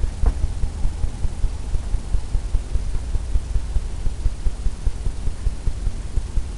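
A low rumble with rapid, uneven soft thumps, several a second.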